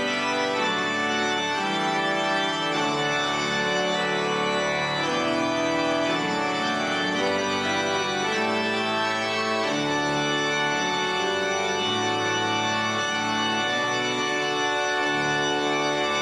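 Pipe organ of St Peter's Basilica playing a slow succession of full, held chords at a steady volume.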